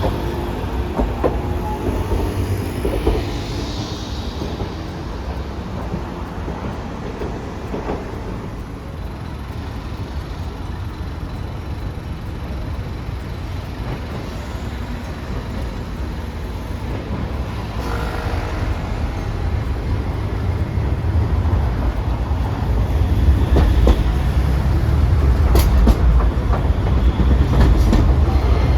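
Hiroshima Electric Railway streetcar running on street track: a steady low rumble that grows louder toward the end, with a few sharp clicks near the end.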